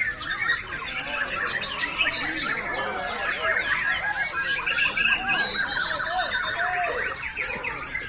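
Caged white-rumped shama (murai batu) singing continuously and hard, with fast chirps, trills and whistled phrases, overlapped by the songs of many other caged songbirds on the contest rack.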